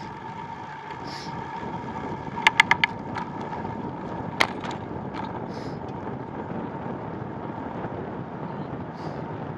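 Bicycle setting off and riding: steady rolling and wind noise from the moving bike, with four quick sharp clicks about two and a half seconds in and one more about two seconds later.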